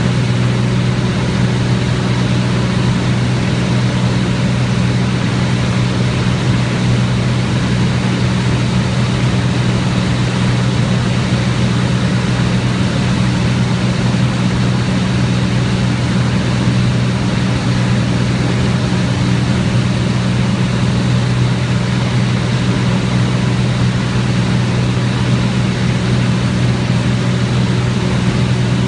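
Cessna 206's six-cylinder piston engine and propeller droning steadily in cruise flight, a constant low hum that holds one pitch and level throughout.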